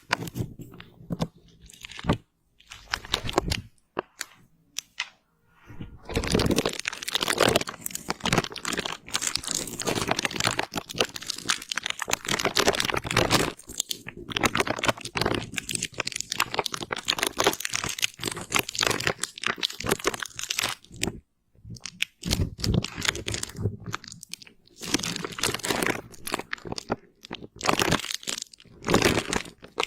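Close-miked ASMR crunching and crackling in long, dense runs broken by a few short pauses.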